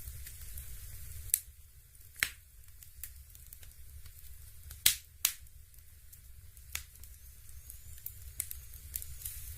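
Crackling log sound effect of a Dimplex Opti-V Double electric fireplace: irregular sharp pops and snaps, a few louder than the rest, over a steady low hum.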